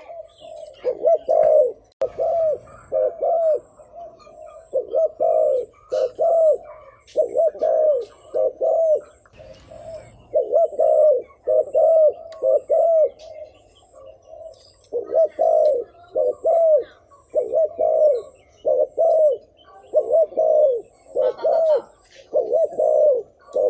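Spotted dove cooing over and over: short, low, rounded coos in quick clusters of two to four, with brief pauses between the clusters. This is the dove's coo as played to lure wild males.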